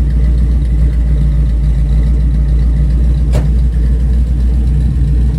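A car engine idling steadily, with one sharp click about three and a half seconds in.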